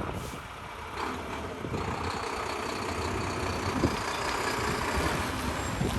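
Dump truck engine running steadily at idle.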